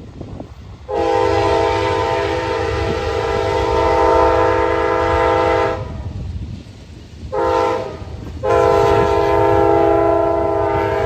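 Amtrak locomotive's multi-tone air horn sounding a long blast, a short blast and another long blast over the low rumble of the passing train: the closing part of the grade-crossing horn signal.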